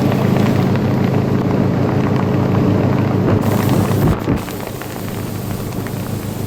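Motorboat engine running steadily under way, with heavy wind rushing over the microphone. The level drops slightly a little past four seconds in.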